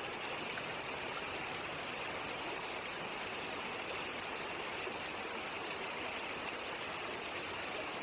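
Niagara Falls: the steady rush of water pouring over the falls, an even hiss that does not change.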